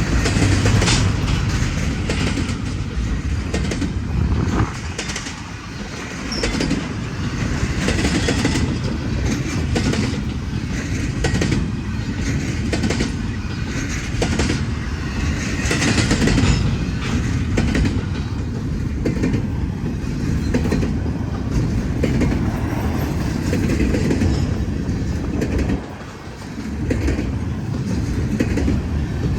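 Union Pacific intermodal freight train rolling past, its steel wheels clicking over the rail joints with a steady rumble. The sound dips briefly twice, about five seconds in and again near the end.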